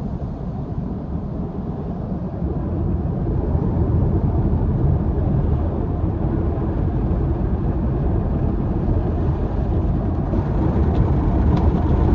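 Automatic car wash machinery heard from inside the car's cabin: a steady, even noise that gets louder about two and a half seconds in.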